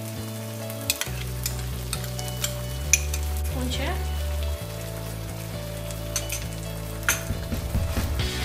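Chopped garlic, green chili and ginger sizzling in oil in a wok as stir-fry sauce is poured in and stirred with a wooden spatula. Occasional clicks of the spatula against the wok, with quicker stirring strokes near the end.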